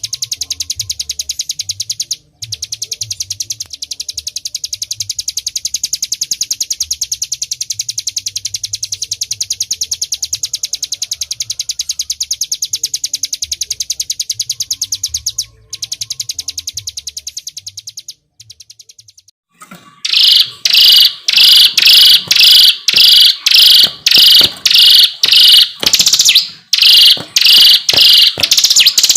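Hill prinia (ciblek gunung) singing: a long, very fast continuous high trill with two brief breaks, then after a short pause a run of loud repeated falling notes, about one and a half a second.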